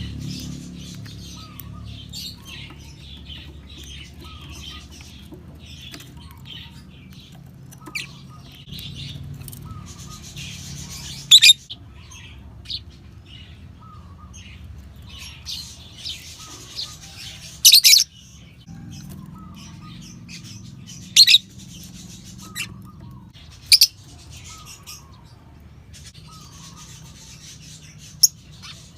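Lovebirds chattering and chirping continuously, with about five short, loud, shrill calls spread through.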